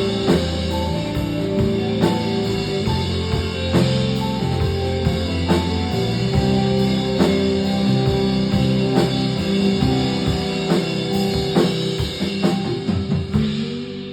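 Rock band playing an instrumental passage of the song on drum kit, guitar and bass. Near the end the drums drop out, leaving a held chord ringing.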